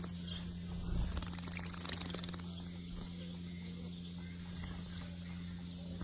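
Young white-rumped munias bathing in a shallow basin of water: quick fine splashing for the first two seconds or so, then several short, high chirps, over a steady low hum.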